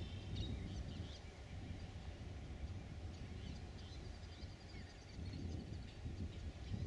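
Small birds giving short high chirps and twittering calls, scattered throughout, over a steady low rumble.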